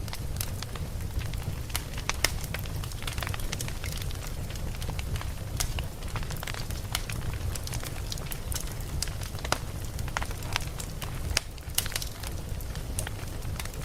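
Burning logs in a wood fire crackling, with many sharp irregular pops over a steady low rumble.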